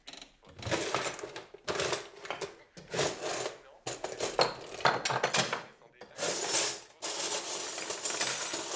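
Objects clinking and rattling in a wooden dresser as its doors and drawers are opened and its contents rummaged through, in a series of irregular bursts that get busier near the end.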